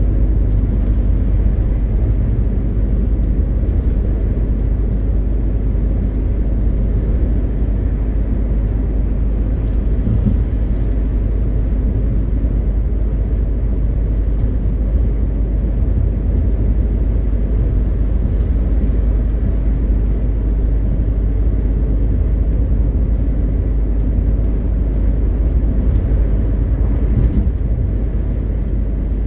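MAN TGX 520 truck under way: a steady, unbroken drone of diesel engine and road noise with no change in pitch.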